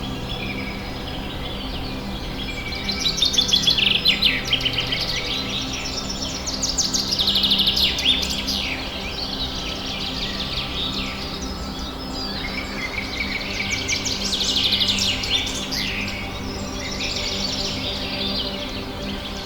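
Birds chirping and trilling in repeated bouts of fast, high calls, over a steady low hum.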